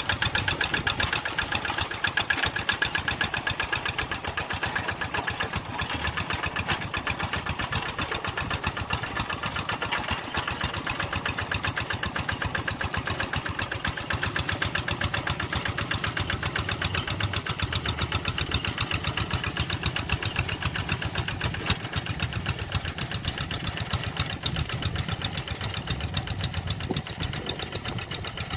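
Tractor engine running steadily, a rapid even firing beat, with a heavier low rumble in the second half.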